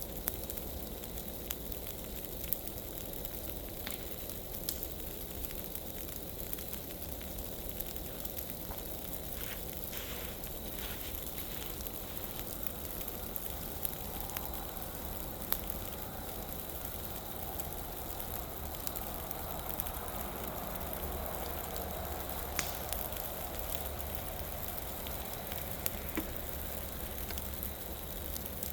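Burning pile of dry leaves: a steady rushing crackle with scattered sharp pops and snaps.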